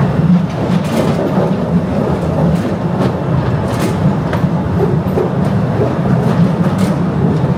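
Postojna Cave train running along its rails, a steady loud rumble with a few faint clicks scattered through it.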